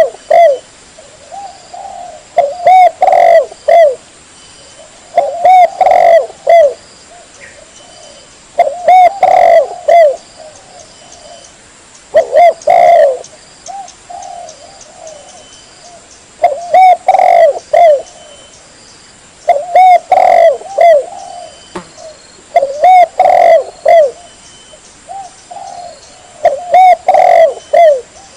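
Spotted dove (tekukur) cooing, loud and clear. Each phrase holds several rounded coos, and a phrase comes about every three to four seconds: a lure call for wild spotted doves.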